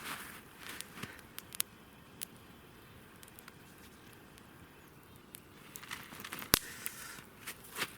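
Campfire crackling with scattered small pops and one sharp crack about six and a half seconds in, with soft crunching in the snow in the first second and again near the end.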